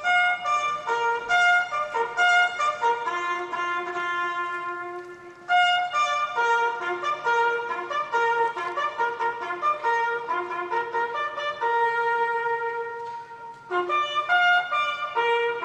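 Solo trumpet playing a melody one note at a time, in phrases broken by short pauses about five and a half and fourteen seconds in.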